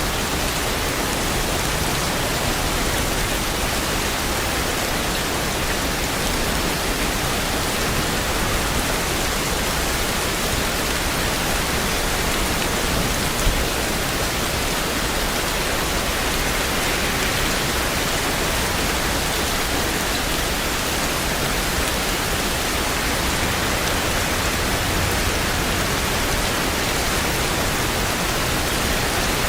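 Steady heavy rain, an even, unbroken hiss of many drops with no pattern or pause, and one brief louder tap about halfway through.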